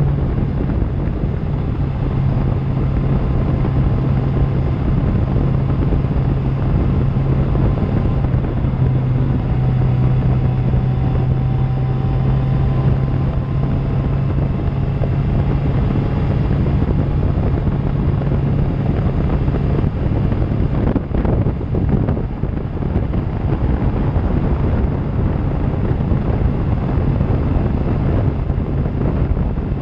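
Suzuki GSX-R750's inline-four engine running at a steady cruise through an Akrapovic exhaust, with wind buffeting the microphone. About two-thirds of the way through, the engine note briefly breaks and dips, then settles back to a steady run.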